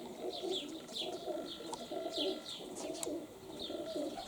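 Domestic pigeons cooing over and over, low warbling calls, with small birds giving short, high, falling chirps above them.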